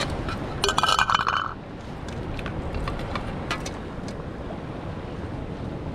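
Wind on the microphone and ocean surf as a steady rumble, with a short clinking rattle about a second in and a few light clicks a couple of seconds later.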